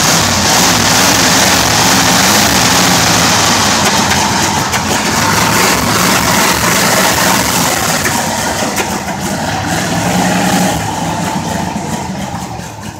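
Chevrolet 350 small-block V8 in a 1967 GMC pickup running loudly at raised revs just after a cold start; the engine is cold-blooded and hesitates until warm, and the choke isn't working right. The sound falls away over the last couple of seconds.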